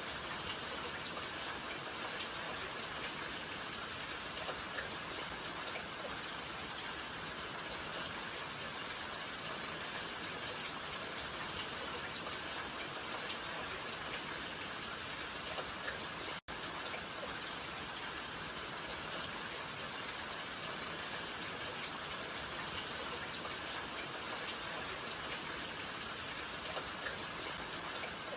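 Steady rain falling, a dense even patter of many small drops. It cuts out for a split second a little over halfway through, then carries on unchanged.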